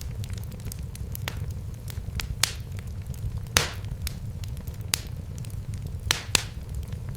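Wood fire crackling: irregular sharp pops and snaps over a steady low rumble of the flames, with louder pops about two and a half seconds in, mid-way, and twice near the end.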